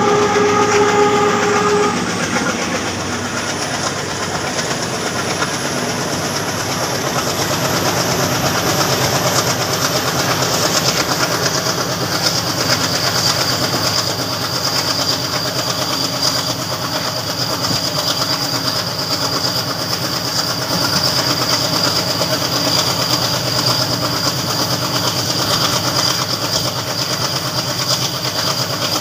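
Train running at speed on the rails: a steady rumble and clatter of wheels over the track, with a steady high-pitched whine. A train horn sounds for about the first two seconds.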